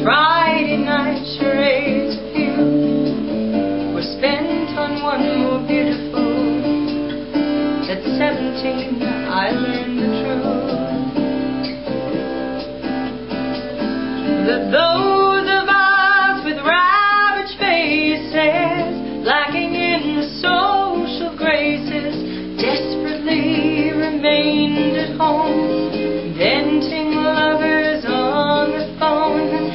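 A woman singing a song with guitar accompaniment.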